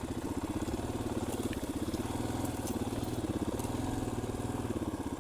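KTM 500 EXC-F dirt bike's single-cylinder four-stroke engine running at low, steady revs while being ridden, its pulsing note easing up and down slightly.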